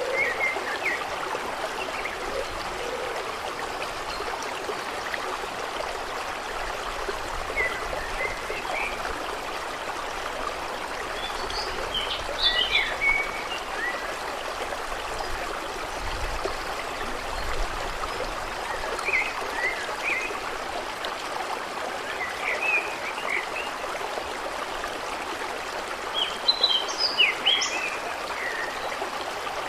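Steady rushing flow of water, with birds giving short chirping calls every few seconds, a busier burst of chirps near the end.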